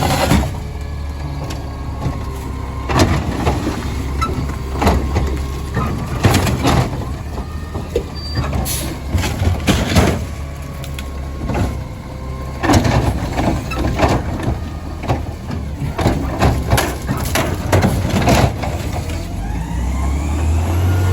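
Garbage truck's engine running while frozen recycling bins are slammed against the hopper again and again to knock the stuck contents loose, a long series of loud bangs. The engine revs up near the end.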